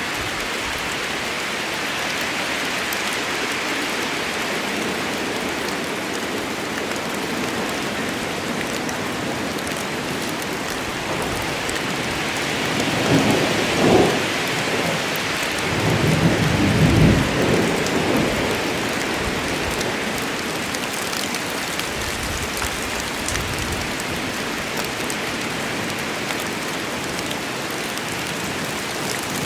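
Steady rain falling in a rain storm, with a low roll of thunder about halfway through that swells twice before dying away.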